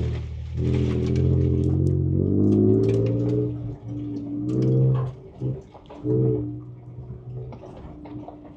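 Ford Ranger Raptor's twin-turbo V6 heard from inside the cab, revving up in a few short surges as the throttle is pressed and let off, then settling to a lower drone. Scattered clicks and knocks run through it.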